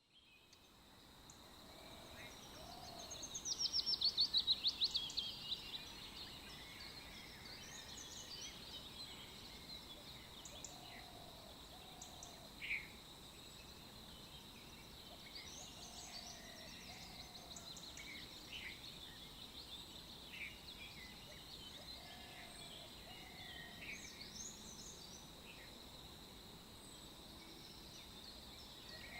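Birdsong ambience: a loud, quickly falling trill a few seconds in, then scattered short chirps and soft paired low calls every few seconds, over a steady high tone.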